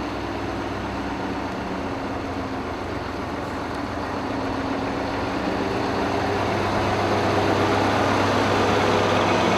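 Heavy truck engine running steadily, getting gradually louder toward the end.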